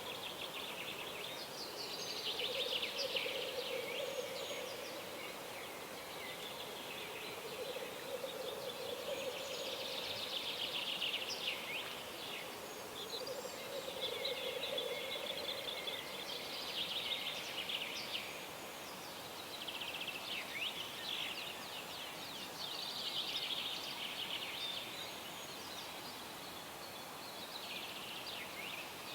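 Birds singing at dawn: a songbird repeats quick, many-noted phrases every few seconds. Through the first half a lower call comes and goes in long stretches.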